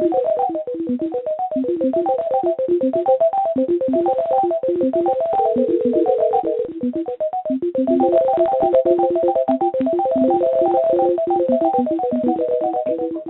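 Rapid electronic blips and beeps hopping among a few pitches, several notes a second, with one longer held tone about halfway through, heard over a narrow telephone line: the call-flood audio played into a scam call centre's phones.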